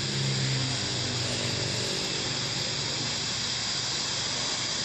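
Airband radio receiver tuned to the control tower frequency, giving steady static hiss between transmissions. A low hum under the hiss fades out about two seconds in.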